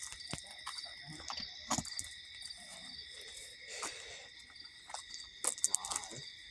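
Crickets chirping steadily in a high night chorus, with a few sharp clicks and knocks scattered through it, loudest near the end.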